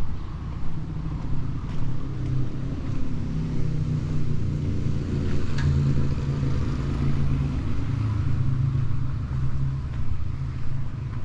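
Street traffic: a motor vehicle's engine running close by, a steady low rumble, with a brief click about halfway through.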